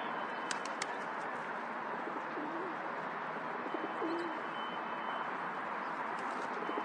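Feral rock pigeons cooing: low, wavering coos about two and a half seconds in, again around four seconds and near the end, over steady outdoor noise, with a couple of sharp clicks near the start.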